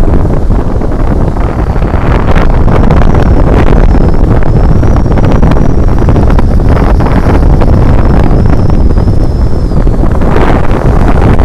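Strong sea wind buffeting the microphone: a loud, continuous rumbling roar that never lets up.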